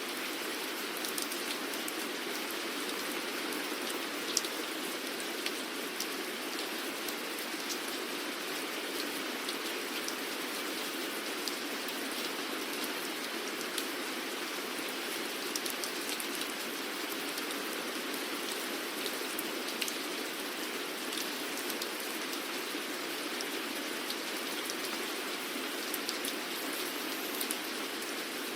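Steady rainfall: an even hiss with scattered sharper taps of individual drops.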